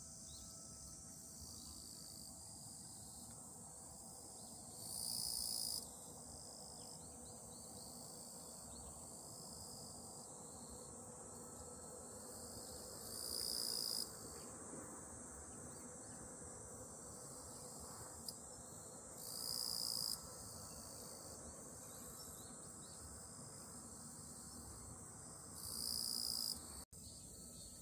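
Crickets chirring in a steady chorus in grass. Four times, a louder cicada buzz swells over the chorus for about a second and then cuts off abruptly.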